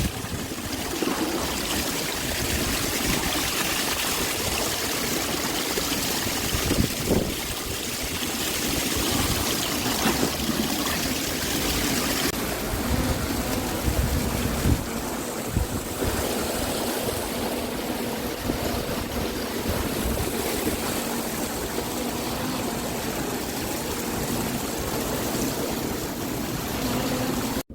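Steady rush of moving water, with low thumps here and there.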